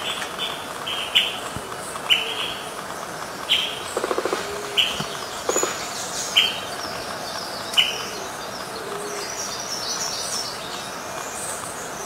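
Forest birds calling: short, sharp chirps about once a second, with two brief buzzy rattles around four and five and a half seconds in and fainter, higher notes later on.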